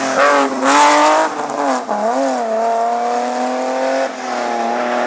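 Rally car engine under hard driving, its pitch dipping and rising on and off the throttle, then climbing steadily under acceleration until a gear change about four seconds in. A loud hissing burst comes in the first second.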